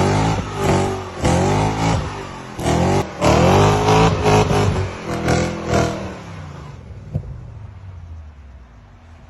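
BMW car's engine revved hard several times through its exhaust, pitch rising and falling with each blip. About six seconds in it fades to a quieter, low steady idle.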